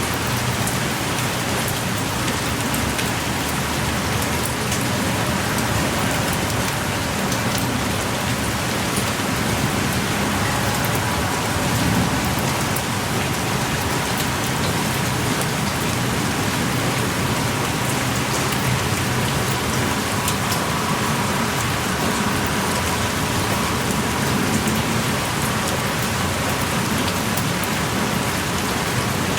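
Heavy rain pouring steadily, a dense even patter with scattered individual drop ticks.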